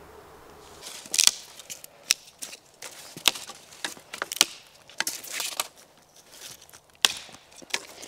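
Dry dead sticks snapping and cracking: a series of sharp, irregular cracks, with brief rustling in between.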